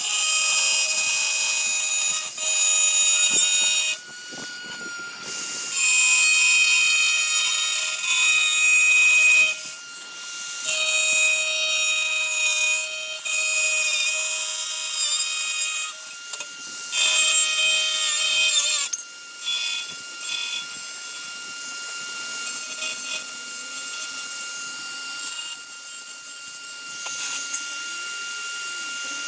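A hand-held power tool on a tile job, running in bouts of a few seconds with a high whine and a hiss, starting and stopping several times, then quieter near the end.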